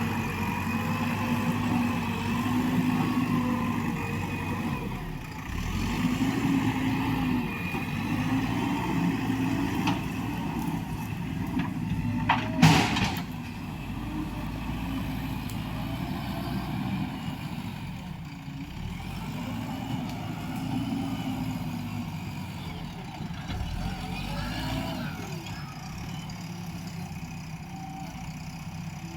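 JCB 3DX backhoe loader's diesel engine running under working load, its revs rising and falling again and again. There is one short sharp bang about halfway through.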